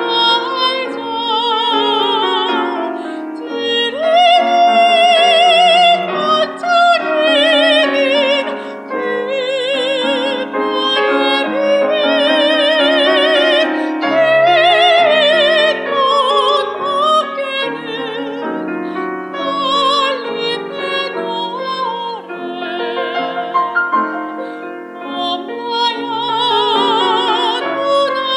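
Operatic female voice, a soprano, singing a classical-style song with wide vibrato, accompanied by piano.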